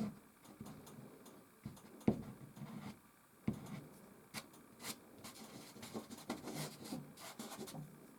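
Soft pastel scratching and rubbing across canvas in short, irregular strokes, with a couple of sharper knocks about two and three and a half seconds in.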